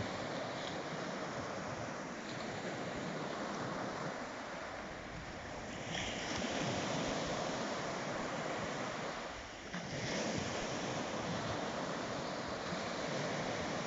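Sea waves breaking and washing on the shore, a steady rush that swells and eases, with wind on the microphone.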